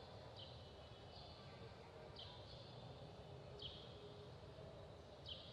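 Faint open-air ambience: a small bird gives short, downward-sliding chirps every second or two over a low, steady background murmur.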